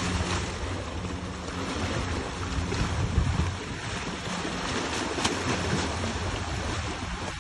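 Sea water sloshing and lapping in the shallows, with wind buffeting the microphone.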